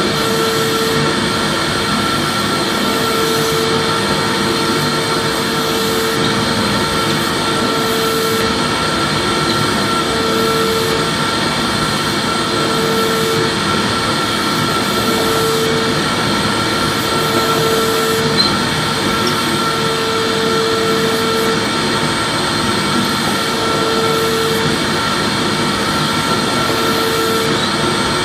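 Vacuum cleaner running steadily, a continuous rushing motor noise with a high whine held throughout. A lower hum drops in and out every second or two.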